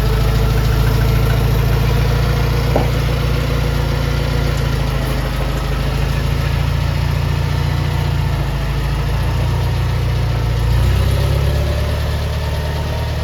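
International 424 utility tractor engine running steadily, its speed shifting a little, briefly louder about eleven seconds in.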